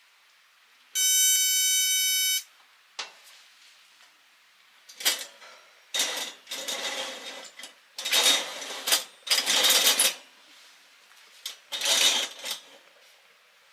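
A steady electronic beep lasting about a second and a half, then a string of short noisy rustling or crinkling bursts.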